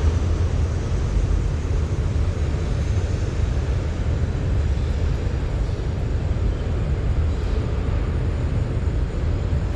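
Steady low rumbling wind buffeting the microphone, with a fainter hiss over it.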